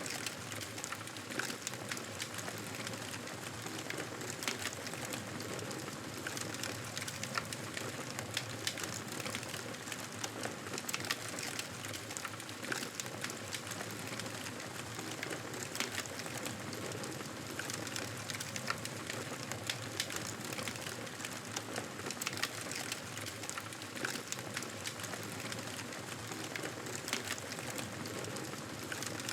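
Campfire burning steadily, wood crackling and popping with frequent small sharp snaps over a soft constant hiss.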